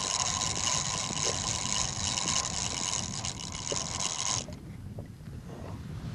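Fishing reel being wound, a steady gear whir as the line is reeled in, stopping suddenly about four and a half seconds in.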